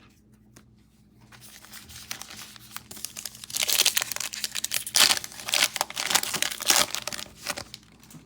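A trading-card pack wrapper being torn open and crumpled, a dense run of crinkling and crackling that starts about three seconds in and stops shortly before the end.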